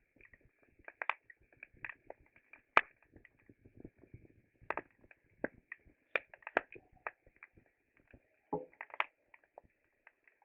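Wood fire crackling, with irregular sharp pops and snaps of varying loudness over a faint steady high-pitched background.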